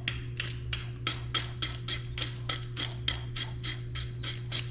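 Rapid, evenly spaced clicking, about four clicks a second, that stops near the end, over a steady low hum.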